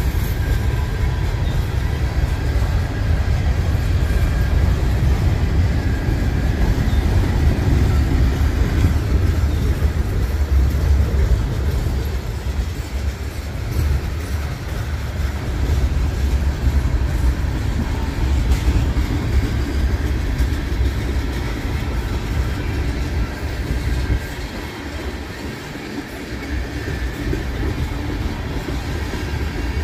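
A CN freight train's cars, boxcars and then a long string of tank cars, rolling steadily past on the rails with a continuous low rumble of steel wheels on track.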